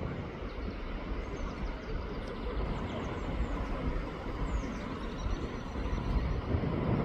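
Steady low outdoor rumble with faint, short, high chirps of small birds over it.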